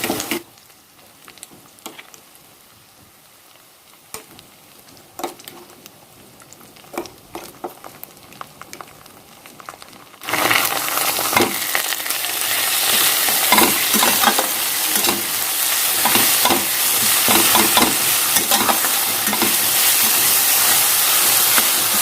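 Ginger, garlic and green-chilli paste with onions frying in mustard oil in a pan, stirred with a spoon. For about the first half there are only a few light knocks. Then a loud sizzle starts suddenly, with the spoon scraping and clicking in the pan throughout.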